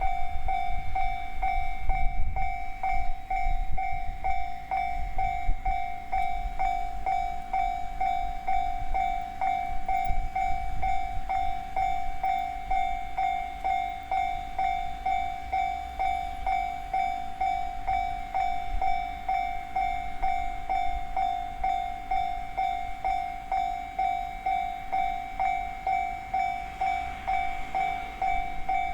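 Japanese level-crossing warning bell ringing steadily, about two strikes a second, while a freight train rolls past with a low rumble of wheels on rail that is heaviest in the first ten seconds or so and then eases.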